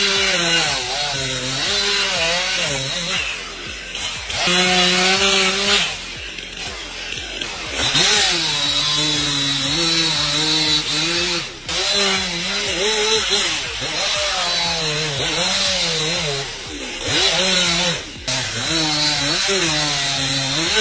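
Chainsaw engine running and revving up and down while cutting, its pitch rising and falling, with abrupt changes in level several times.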